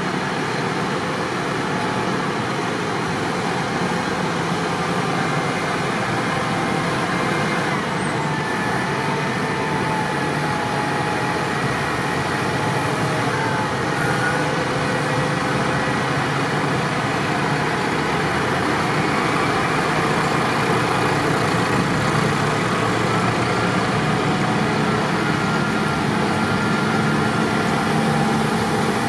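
Tractor engines running steadily, a continuous engine noise with a few faint tones that drift slowly up and down.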